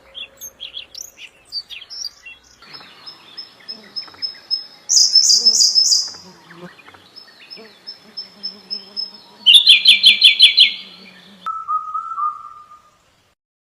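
Songbirds singing, several recordings spliced together: quick high chirps, then a thin high note repeated over and over, broken twice by loud bursts of fast notes, then after an abrupt cut a lower whistled phrase of a few quick notes.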